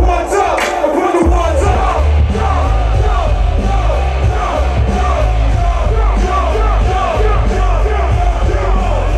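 Loud live hip hop music: a heavy bass beat comes in about a second in, with vocals shouted over it.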